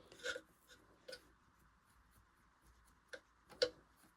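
Faint, short scraping strokes of a small cleaning tool rubbing dirt and rust off the metal of a Singer Genie sewing machine, four or five scattered strokes with the loudest near the end.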